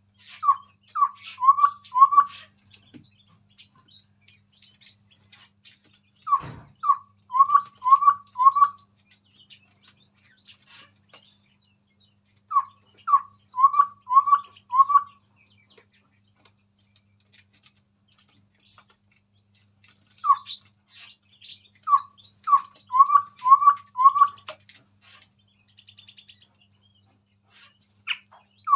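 Chestnut-rumped babbler calling: repeated runs of four or five short, hollow, falling whistled notes, about four runs with pauses of several seconds between them. A fainter bird chirps in the gaps, and a single low thump comes early in the second run.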